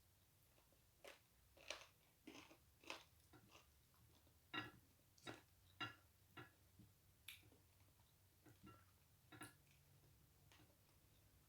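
Close-up mouth sounds of chewing and biting on chicken feet: about a dozen short, irregular wet crunches and clicks, stopping a couple of seconds before the end.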